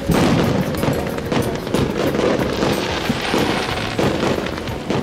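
Aerial fireworks bursting in quick succession: repeated sharp bangs with dense crackling between them. Music plays underneath.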